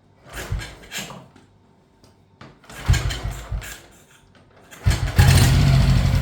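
1951 Panther M100 600cc single-cylinder engine being kickstarted from cold after months laid up: two kicks turn it over, then it catches about five seconds in and keeps running steadily.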